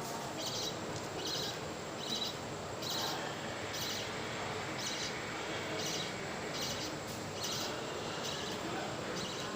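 Budgerigar chicks begging while being fed: short raspy chirps repeating a little faster than once a second.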